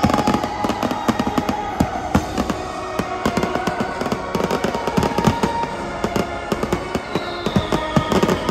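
Fireworks display with rapid, dense bangs and crackles going off over music with long held notes, and a falling whistle near the end.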